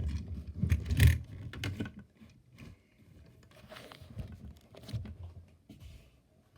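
Handling noise: clicks, scrapes and low bumps as a small model car is picked up and moved about close to a phone's microphone, loudest in the first two seconds, then lighter scattered clicks.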